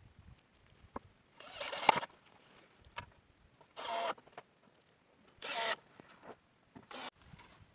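Four separate rasping strokes of hand-tool work, each about half a second long, with a few faint knocks between them.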